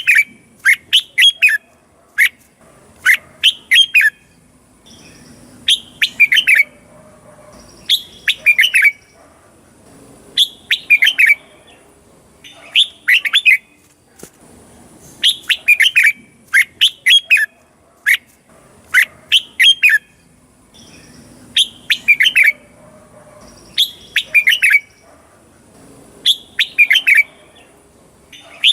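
Red-whiskered bulbul singing: short phrases of three to five quick, sharp whistled notes, repeated about every two seconds.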